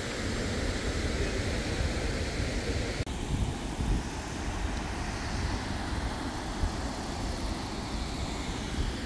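Steady rushing roar of a large waterfall, with wind buffeting the microphone in a low rumble. The sound shifts abruptly about three seconds in.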